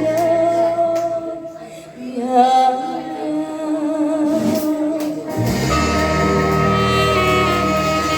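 A Taiwanese Hokkien song performed to a backing track: a singer holds a long wavering note, then the accompaniment carries on with sustained chords, and a deep bass line comes in about five seconds in.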